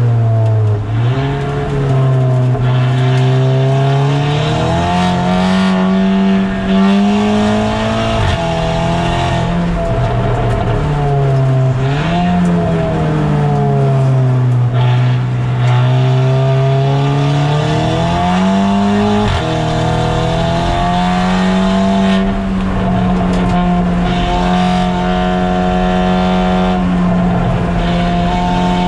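A 2008 Audi TT race car's engine, heard from inside the car at lapping speed. Its pitch climbs under acceleration and drops abruptly at two upshifts, about 8 and 19 seconds in, and eases down in between as the car slows for corners.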